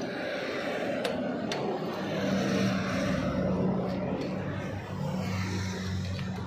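Motorcycle engine running steadily over constant background noise, its low hum growing stronger about two seconds in; a few faint clicks.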